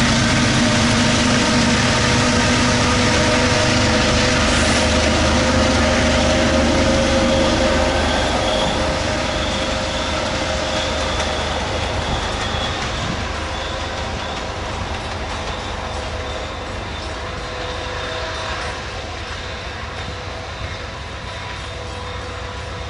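MBTA HSP46 diesel locomotive and its passenger cars running on the track: a steady low engine hum with rolling wheel noise. A thin high wheel squeal comes in about eight seconds in, and the sound fades slowly through the second half.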